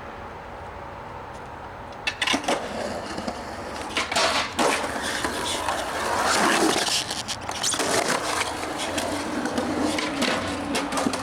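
Skateboard rolling, with several sharp clacks of the board popping and landing.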